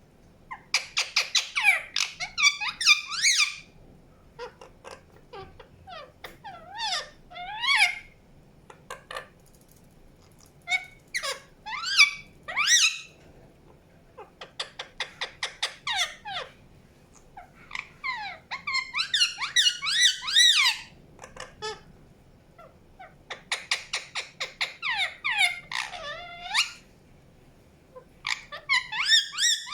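Indian ringneck parakeet chirping and squawking in bouts: quick runs of sharp, high chirps and bending squawks, several calls a second, broken by short pauses every few seconds.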